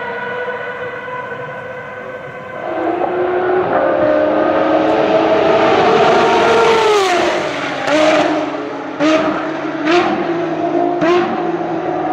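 High-revving Ferrari track car engine coming up loud, peaking about six to seven seconds in, then dropping sharply in pitch. Four short sharp bursts about a second apart follow, like throttle blips on downshifts. A fainter steady high engine tone of another car is heard before it arrives.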